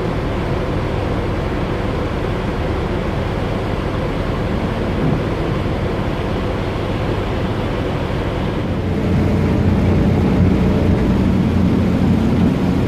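Passenger ferry's engines running with a steady low drone under a rushing noise; the drone grows louder about nine seconds in.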